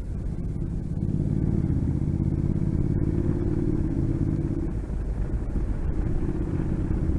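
Motorcycle engine running steadily while riding along, a little louder after about a second, with a brief dip about five seconds in.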